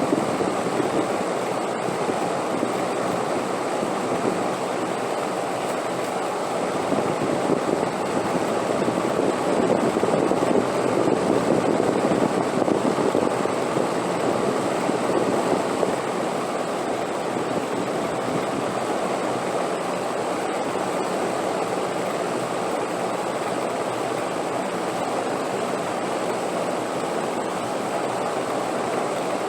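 Steady rushing wind, a touch stronger in the first half before settling, with a faint steady high tone running under it.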